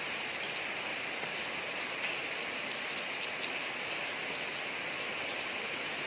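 Steady rain falling on a street, an even hiss with scattered faint drop ticks.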